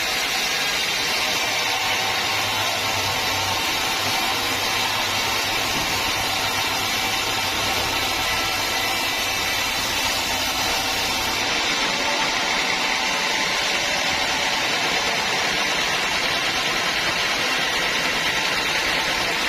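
Sawmill machinery running steadily, with a low hum underneath that drops away a little over halfway through.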